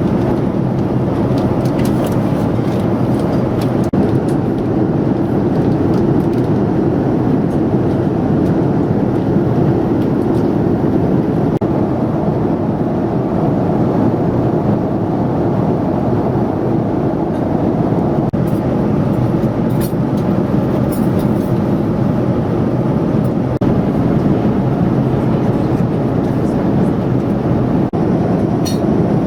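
Steady rumble of an airliner's engines and airflow heard from inside the passenger cabin, with a few faint ticks.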